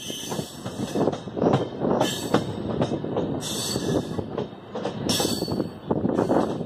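Running noise of an LHB passenger coach taking a sharp curve, heard from its open door: a steady rough rumble and knocking of wheels on rail, broken by several short bursts of high-pitched wheel squeal.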